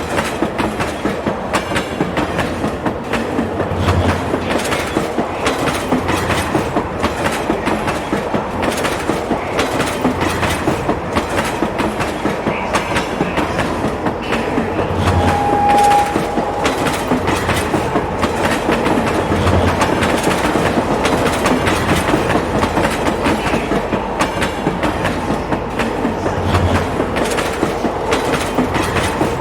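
Train running along the track: a steady rumble with the wheels clicking over the rail joints and a soft low thud every few seconds. A short, steady high tone sounds about halfway through.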